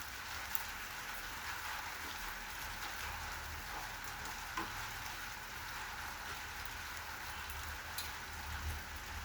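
Steady rain falling, with scattered drops ticking on surfaces and one sharper drop hit about halfway through.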